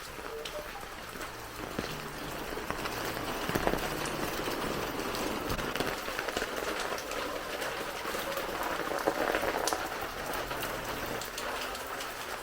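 Heavy rain falling and pattering on surfaces: a dense steady hiss full of small drop impacts, growing louder about three and a half seconds in.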